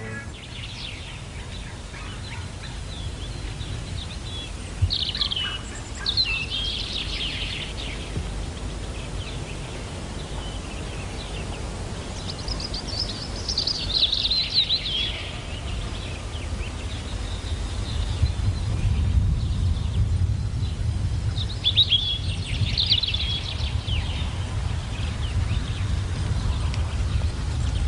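Small birds chirping and singing in short runs of quick, high notes, returning several times, over a steady low outdoor rumble.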